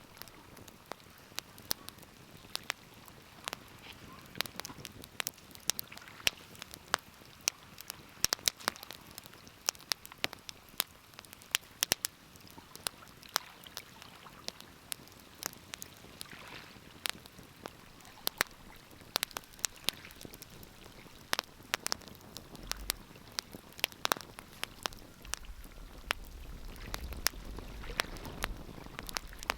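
Wood fire crackling, with many sharp irregular pops and snaps over a soft steady hiss. A low rumble comes up in the last few seconds.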